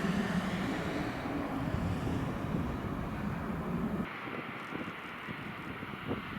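Aircraft engines running in a steady hum, mixed with wind on the microphone; about four seconds in the sound changes abruptly to quieter, gusty wind noise without the engine hum.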